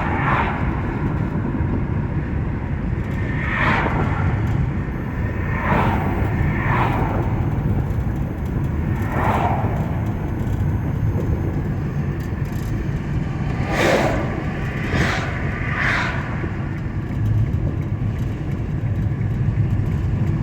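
Car driving on the road, heard from inside the cabin: a steady low road and engine rumble, with several brief whooshes passing over it.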